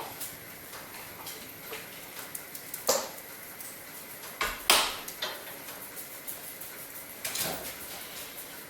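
Firewood being loaded into a cast-iron fireplace insert: a few sharp knocks and clatters of logs, the loudest about halfway through, with small ticks and crackles in between.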